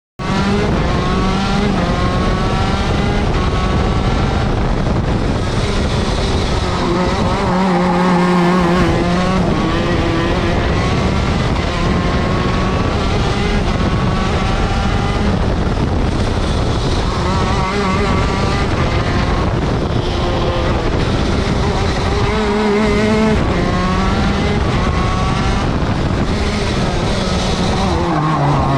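TM Racing 125cc two-stroke shifter kart engine at race pace. It revs up again and again through the gears, and the pitch falls sharply under braking about a quarter of the way in, again about three-quarters of the way in, and near the end.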